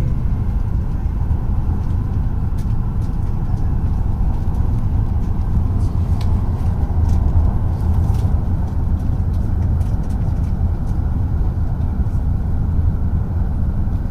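Tohoku Shinkansen train running at speed, heard from inside the passenger cabin: a steady, loud, low rumble of running noise, with faint scattered ticks.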